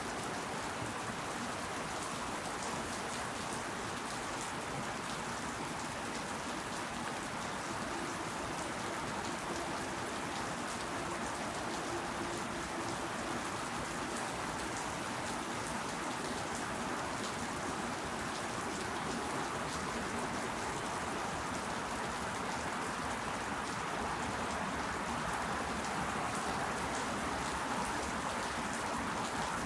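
Steady rain falling, with fine drops pattering on leaves and surfaces; it swells slightly near the end.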